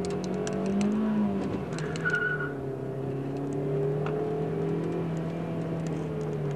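Car engine heard from inside the cabin during hard circuit driving. Its pitch rises a little, drops about a second and a half in, then holds steady. A short high squeal comes about two seconds in, and light clicks and rattles are scattered throughout.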